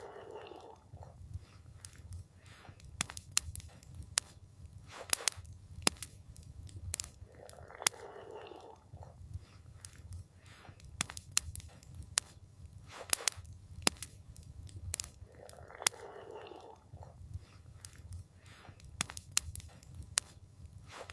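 Wood campfire crackling, with irregular sharp pops and snaps over a steady low rumble. A soft whoosh swells up about every eight seconds.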